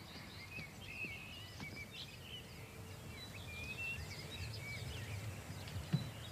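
Small birds chirping, many short rising and falling calls, over a faint low outdoor rumble, with a light knock near the end.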